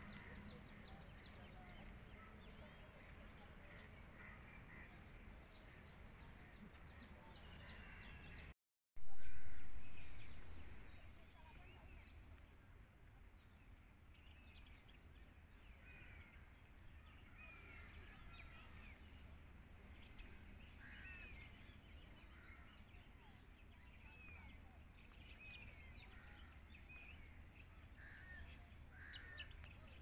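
Birds calling in short chirps here and there over a steady background of outdoor noise. About nine seconds in the sound drops out for a moment, then a loud burst of noise comes in and fades away over about two seconds.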